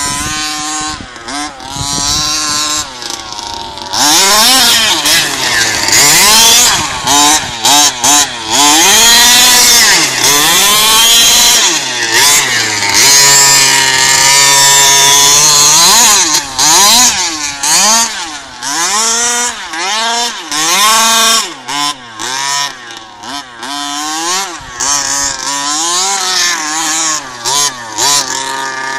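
RC car motor revving up and down over and over, its pitch rising and falling, loudest for several seconds about a quarter of the way in, with brief cut-offs of throttle later.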